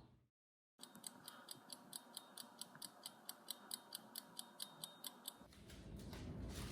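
Clock-like ticking, about four sharp, even ticks a second, that stops suddenly after a few seconds, leaving faint room hum.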